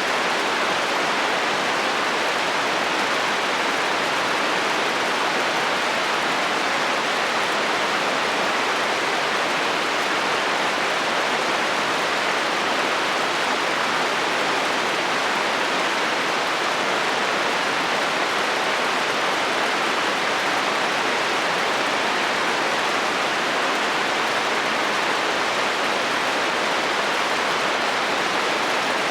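Steady rain falling on a metal roof, an even, unbroken hiss of drops.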